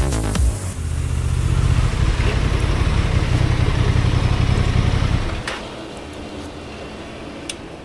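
Motorcycle engine running under way with wind noise, loud and steady, then dropping to a quieter level about five seconds in.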